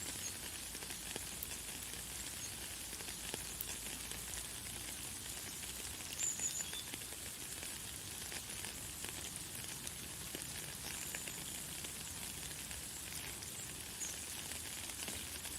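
Light, fine rain falling steadily, a dense hiss of small drop ticks, with a few brief high bird chirps, the loudest about six seconds in.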